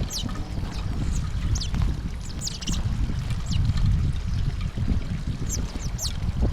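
Small songbirds at a feeder giving scattered short, high chirps, over a steady low rumble.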